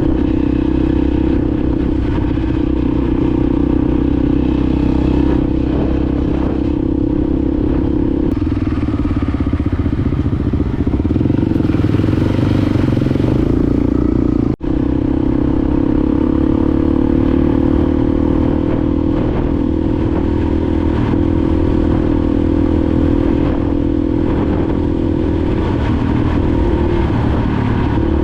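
Honda XR250 Baja trail bike's single-cylinder four-stroke engine running while under way, at a fairly steady speed. The engine note drops slightly about a third of the way in, breaks off for an instant about halfway, then climbs gradually.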